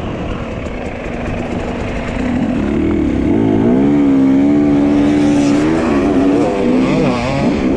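Dirt bike engine running, its pitch climbing about three seconds in and then holding steady before wavering up and down with the throttle, over a constant low rumble.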